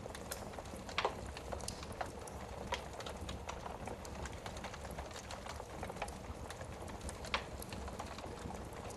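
Wood fire crackling in a fireplace: irregular sharp snaps and pops over a steady low hiss, with a few louder pops about a second in, near the middle and near the end.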